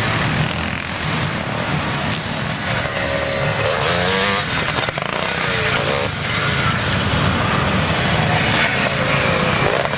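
Several motocross motorcycles racing, their engines revving up and down through gear changes as they pass, with rising and falling engine whines around the middle and near the end.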